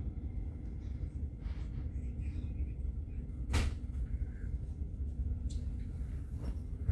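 Low, steady rumble of a regional train running slowly, heard from inside the passenger coach. A single sharp click or knock sounds about three and a half seconds in.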